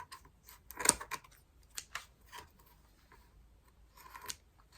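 Scissors snipping through hair tangled around a vacuum cleaner's brush roll. There are a few separate sharp snips, the clearest about a second in, then a couple more and a short cluster near the end.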